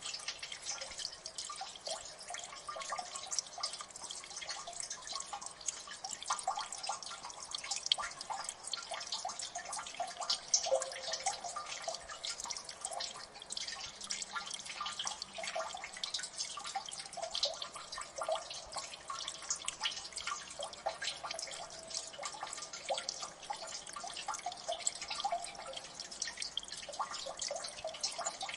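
Water dripping in a gully: many small drips falling fast and irregularly, with a light steady trickle of water behind them.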